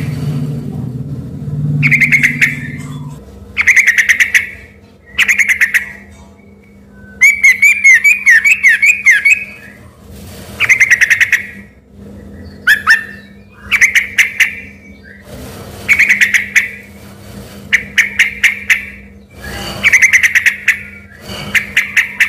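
Yellow-vented bulbul (trucuk) singing loudly in a shama-like style. It gives short stuttering phrases every second or two, with one longer warbling run in the middle.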